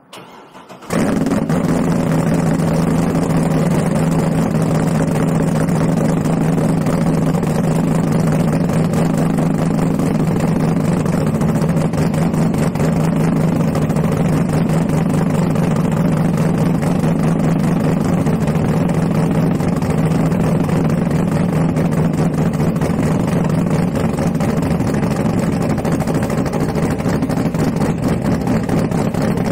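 2011 Corvette Z06's big-cam LS7 V8 cranking briefly and firing up about a second in, then idling loud and steady through its quad exhaust. It is a first start after four months of storage.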